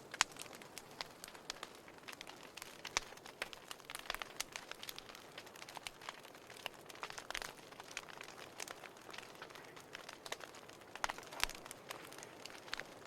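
Wood fire crackling in a fireplace, with irregular sharp pops and snaps over a soft hiss.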